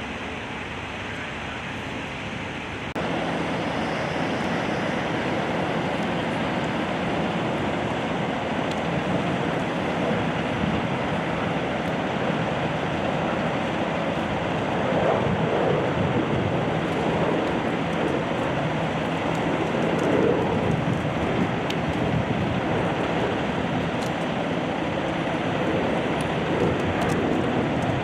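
Steady rushing noise of road traffic with a low hum, jumping louder about three seconds in.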